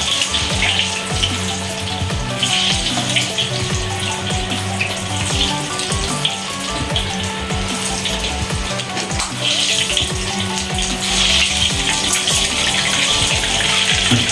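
Taro slices deep-frying in hot oil in a wok, sizzling steadily, with background music underneath.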